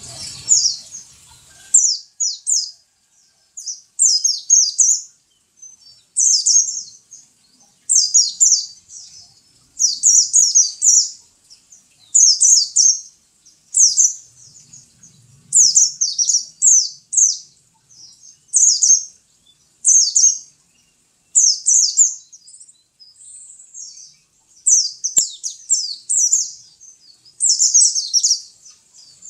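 Pet white-eye (pleci) singing: short phrases of quick, high chirps repeated every second or two.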